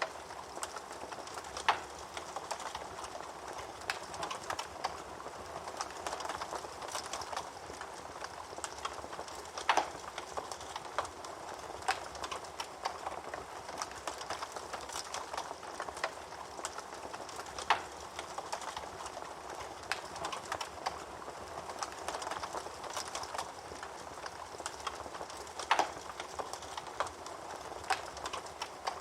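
Wood fire burning in a fireplace, crackling steadily with many small snaps over a soft hiss. A louder pop comes about every eight seconds.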